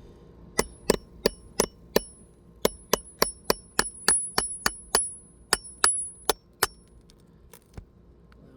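Hammer striking a steel pry bar about twenty times, roughly three blows a second, each blow with a bright metallic ring. The bar is being driven under a roofing nail to work it out of an asphalt shingle. The blows stop a little before the end.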